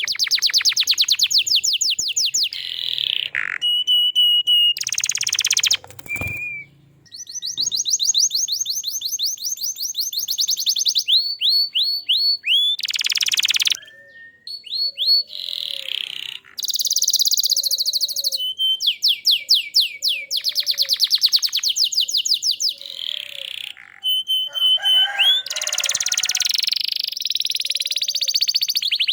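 Domestic canary singing a continuous song of fast rolling trills and repeated chirps, switching to a new trill every second or two with only brief pauses.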